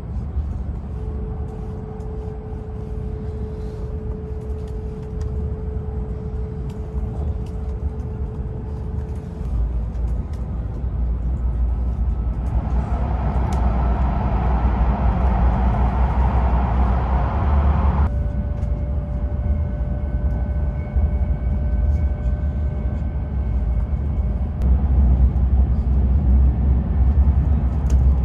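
Cabin noise of a Hayabusa Shinkansen train running at speed: a steady low rumble with faint steady whine tones. About twelve seconds in the noise turns louder and hissier for some five seconds and cuts off suddenly, as the train runs through a short tunnel or snow shelter.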